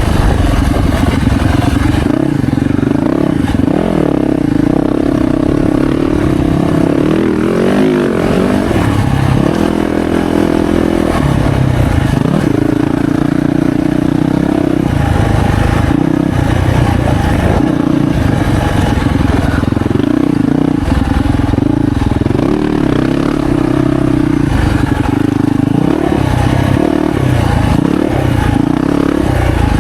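Yamaha YZ450F four-stroke single-cylinder motocross bike running hard on the track, its engine note rising and falling as the rider revs and shifts. There are quick up-and-down sweeps about eight to eleven seconds in.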